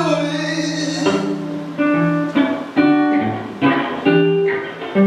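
Acoustic guitar playing a short passage between sung lines, with notes and chords plucked about every half second to a second and left to ring.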